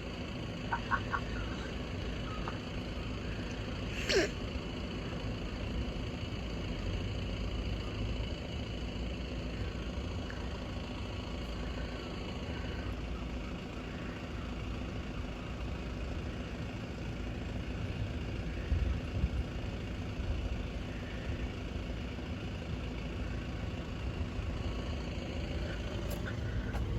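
Steady low outdoor rumble with a faint constant hum, broken by a few short high chirps near the start and one sharp high squeak about four seconds in.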